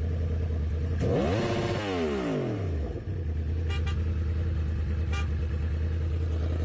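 Motor vehicle running with a steady low hum. About a second in, a second engine-like sound falls in pitch over a couple of seconds, and a few faint ticks follow.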